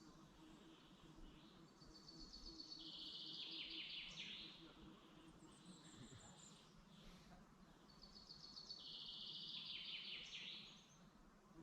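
A songbird singing two similar phrases about six seconds apart, each a fast trill of about three seconds that steps down in pitch.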